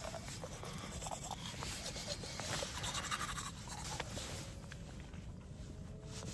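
Teeth being brushed with a manual toothbrush: quiet, irregular scrubbing strokes.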